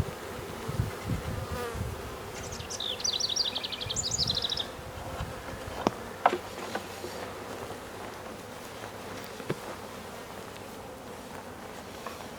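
A honeybee swarm buzzing steadily around an open hive box. A brief high chirping trill cuts in about two to four seconds in, and a few sharp clicks sound near the middle.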